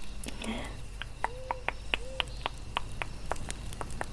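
Campfire crackling: sharp irregular pops, coming thicker from about a second in, with two short soft rising-and-falling tones in the middle.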